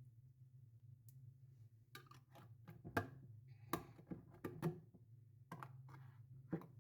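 Faint, irregular clicks and knocks, about a dozen from about two seconds in, over a low steady hum.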